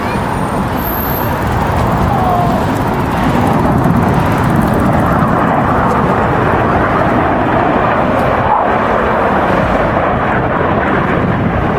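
BAE Hawk T1 jets of the Red Arrows flying past in formation: a steady jet rush that grows a little louder about three seconds in.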